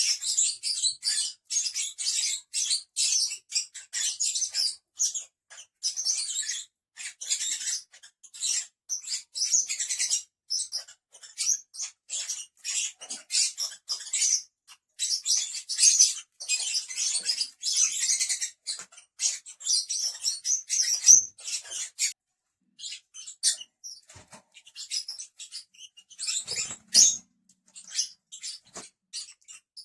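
Lovebirds chattering in rapid, high-pitched chirps and squeaks, almost without pause at first and thinning to scattered chirps for the last third.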